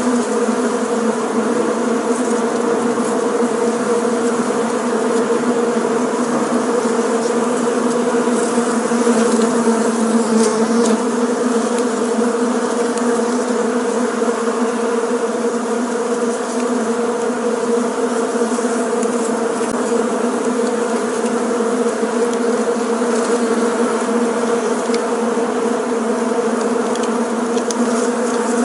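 Bees buzzing in flight: a steady, unbroken drone.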